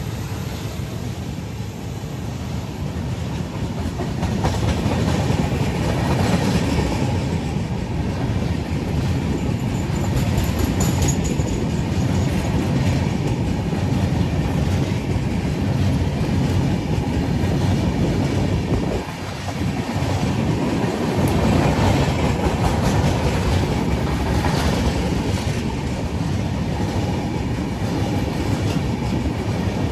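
Indian Railways passenger train running on the track: a steady rumble of wheels with a rhythmic clickety-clack over rail joints, growing louder about four seconds in, with a brief dip partway through.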